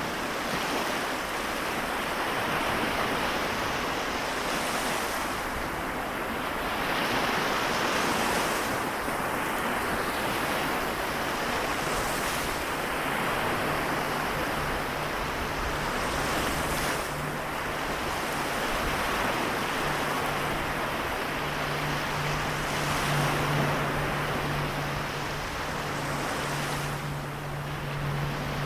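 Sea waves washing ashore, swelling and easing every few seconds. A low steady hum comes in about halfway through and grows louder near the end.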